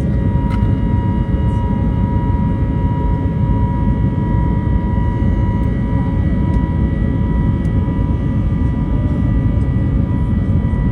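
Steady cabin noise inside an Airbus A321neo climbing after take-off: a loud, even turbofan engine and airflow rumble with steady whining tones over it.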